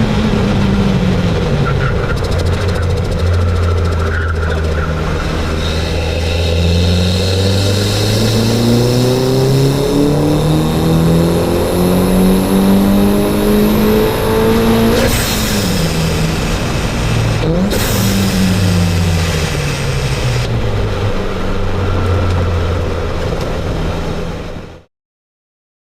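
Mitsubishi Lancer 2.0 turbo engine pulling hard with rising revs for about ten seconds. The throttle then snaps shut with a sudden rush of noise, the turbo flutter on lift-off. A short pull and a second lift follow, then the revs fall as the car slows, and the sound cuts off abruptly near the end.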